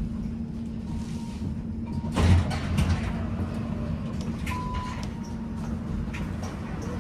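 Tram running with a steady electric hum and low rumble. There is a sharp thump about two seconds in and a short high beep a little past the middle.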